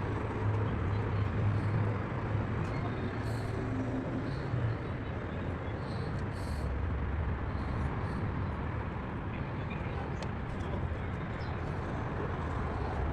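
Steady background traffic rumble that swells and fades, with a few faint clicks.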